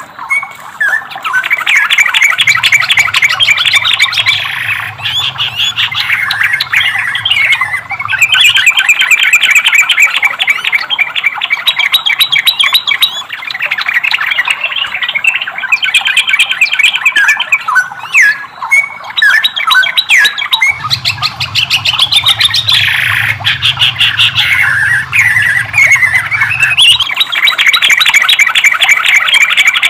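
Trucukan (yellow-vented bulbul) singing a long stream of fast, chattering notes with a few rising and falling whistled notes and brief pauses. A faint low hum comes in twice.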